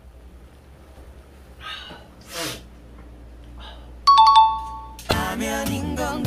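A two-note ding-dong chime, a higher note then a lower one, rings out sharply about four seconds in; about a second later, music with a singing voice starts.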